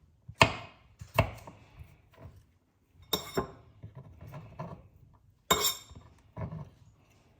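Kitchen knife knocking on a cutting board while garlic is cut: about six irregular sharp knocks, a few with a short metallic ring.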